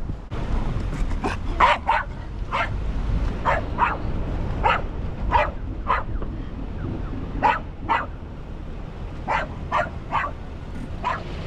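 A dog barking in short, sharp barks, singly and in pairs, about fifteen in all, over a low wind rumble on the microphone.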